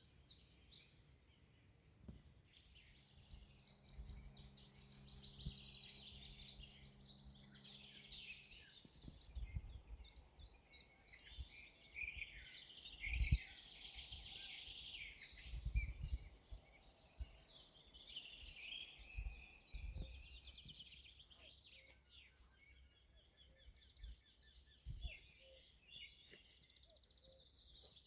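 Several songbirds singing over one another in a dense chorus, with a few loud low thumps around the middle and a faint low hum for several seconds in the first third.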